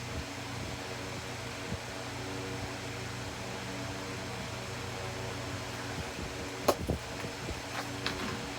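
Steady mechanical hum, like a fan or air conditioner running, with a few short sharp clicks about two-thirds of the way in and again near the end.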